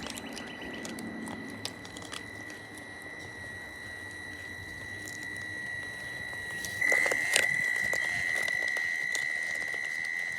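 Steady high-pitched electric whine from the Traxxas TRX-4M crawler's brushed motor and speed controller, getting louder about seven seconds in as it is driven harder. Scattered small clicks and knocks are heard through it.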